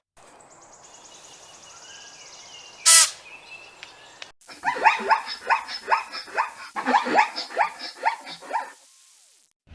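An animal calling: one short sharp cry about three seconds in, then a rapid run of short calls that each slide down in pitch, about three a second, stopping shortly before the end.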